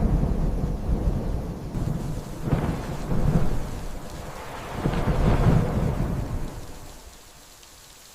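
Rolling thunder over steady rain, the rumble swelling several times and dying away near the end.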